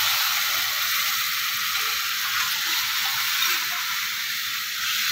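Steady sizzling of onion and masala frying in mustard oil in a kadhai as besan-and-yogurt batter is poured in and stirred with a steel spoon.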